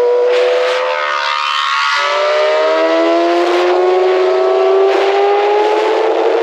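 Sport bike engine pulling under acceleration, its pitch rising steadily, with a gear change about two seconds in and then a longer climb.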